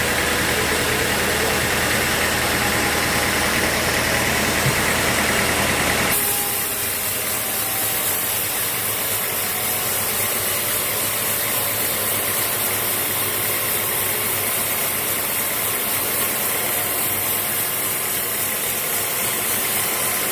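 Sawmill engine running steadily with a low hum. About six seconds in the sound changes abruptly: the low hum drops away and a steady hiss remains.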